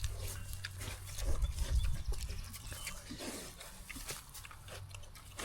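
Two pigs eating hard-boiled eggs: chewing with many short clicks and smacks, and a few short grunts.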